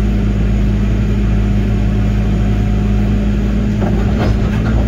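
Link-Belt 145 excavator's diesel engine running at a steady speed.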